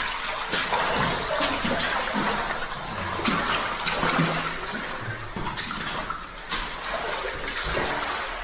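Cave waterfall running after heavy rain: a steady rush of falling water, with scattered sharper splashes throughout.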